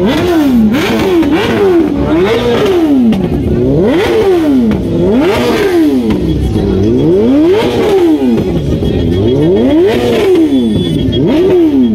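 BMW S1000RR superbike's inline-four engine revved again and again, its pitch climbing and dropping about once a second in a steady rhythm.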